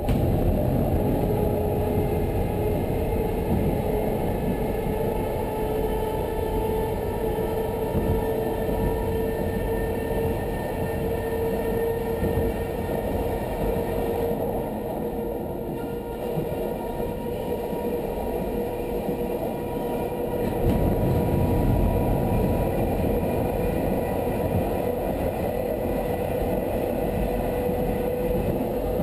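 Electric suburban train running through a tunnel, heard from the driver's cab: a loud rumble of wheels on rail, echoing off the tunnel walls, jumps up suddenly at the start as the train enters. A steady whine sits over it, rising slightly in pitch.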